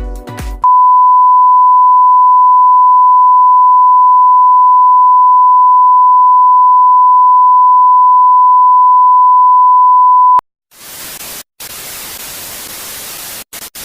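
A single loud, steady electronic beep on one high pure pitch, held for about ten seconds and cut off sharply, followed after a brief gap by television static hiss that drops out for an instant a few times.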